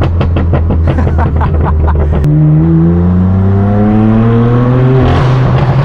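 Straight-piped BMW M4 F82 twin-turbo inline-six exhaust under acceleration. A low, pulsing run for about two seconds is followed by revs climbing steadily through a gear, then dropping sharply with an upshift about five seconds in.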